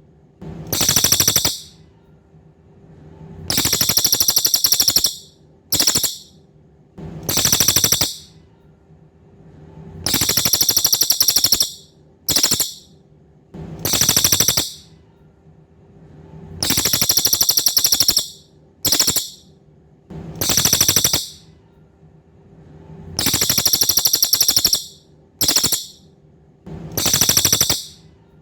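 Cililin songbird repeating a loud, very high, rapid trill in bursts of one to two seconds, a new burst coming every one to three seconds. A faint steady low hum runs underneath.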